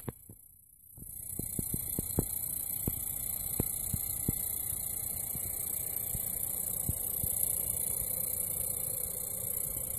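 Refurbished Xbox One console making a steady buzzing hum with scattered irregular clicks, starting after a brief near-silence about a second in. This is the abnormal noise, called buzzing, grinding and chirping, that marks the console as faulty.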